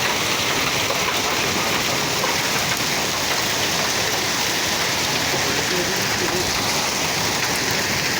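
Heavy downpour falling steadily on surfaces: a dense, even hiss and patter.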